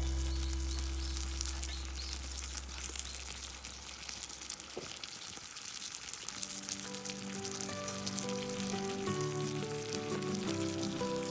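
Campfire crackling over background music: a held low chord fades away in the first half, then a melody of short notes begins about six seconds in.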